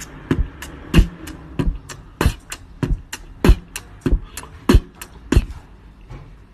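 A steady percussive dance beat with no melody: deep thumps about every 0.6 seconds with lighter sharp clicks between them.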